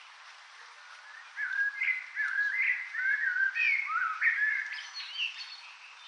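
A songbird singing a run of short, warbling whistled phrases that starts about a second and a half in and stops around five seconds, over a steady background hiss.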